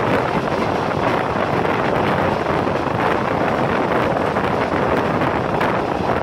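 Steady rush of wind on the microphone from a fast-moving passenger train, mixed with the running noise of the coaches' wheels on the rails.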